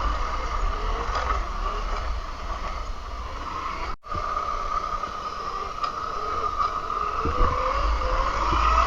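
48-volt Razor MX350 electric dirt bike being ridden: a steady high whine from its motor and chain drive over a low rumble of wind and tyres. The sound cuts out for a split second about four seconds in.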